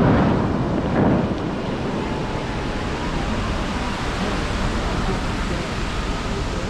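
Fountain water jets rushing and spraying in a steady roar of falling water, with two louder whooshing surges right at the start and about a second in.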